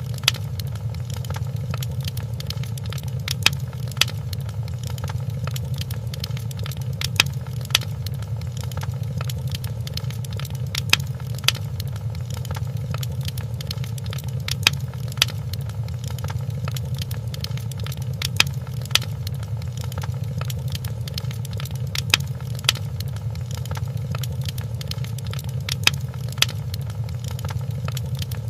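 Wood fire crackling in a fireplace over a steady low rumble, with sharper pops coming in pairs every few seconds.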